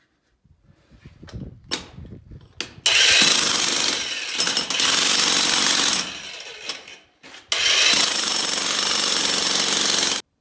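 Electric jackhammer breaking up ground in two bursts of about three seconds each, after a few knocks.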